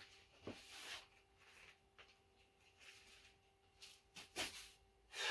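Near silence: quiet room tone with a faint steady hum and a few brief soft rustles, about half a second in, a second in and near the end.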